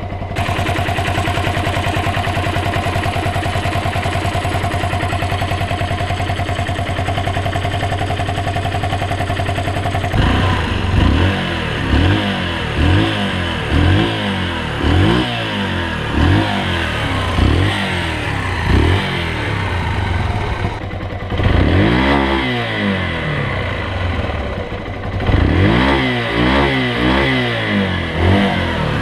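Yamaha XT125X's single-cylinder four-stroke engine and exhaust, holding a steady speed for about ten seconds, then revved in quick throttle blips about once a second, each rising and falling in pitch. Near the end come a few longer, higher revs.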